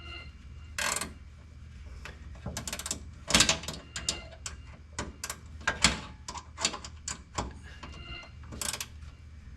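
Hand tools working bolts on a truck: a run of irregular metallic clicks and clanks, a few sharper and louder than the rest, over a steady low hum.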